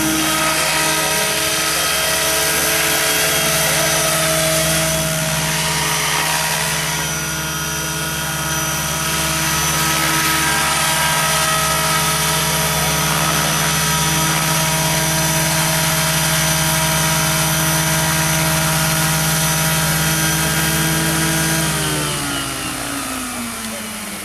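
Radio-controlled model helicopter running at a steady pitch, its motor and rotor giving a constant whine. Near the end the pitch falls steadily as the rotor spools down.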